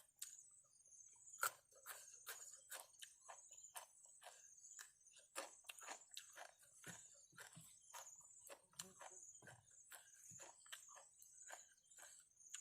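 Close-up chewing of crunchy raw vegetables: many quick, irregular crunches and clicks, over a steady high chirring of insects.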